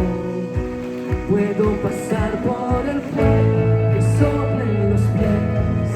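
Live band playing a worship song: piano, electric and acoustic guitars, bass and drums, with no words sung. A heavy bass line comes in about three seconds in.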